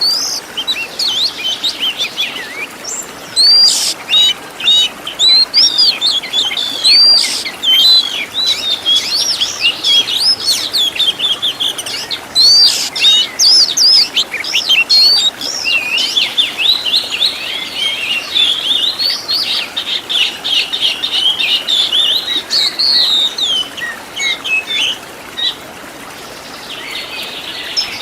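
Oriental magpie-robin (kacer) singing a fast, varied song of sweeping whistles and chirps packed with mimicked phrases, thinning out to a short pause near the end.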